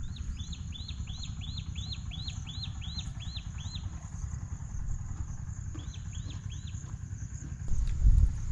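A bird calling a quick series of repeated arching whistled notes, about three a second, for some four seconds, then three more after a short pause. Wind rumbles on the microphone throughout and gusts louder near the end, over a steady high insect hiss.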